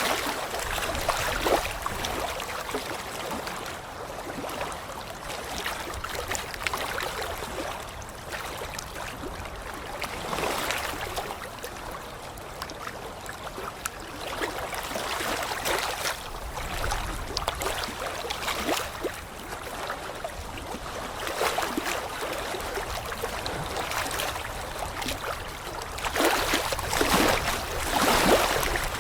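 Running water, a steady rushing hiss that swells louder every few seconds and most strongly near the end.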